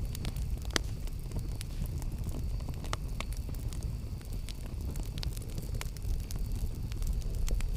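Campfire burning with a steady low rumble and scattered sharp crackles and pops.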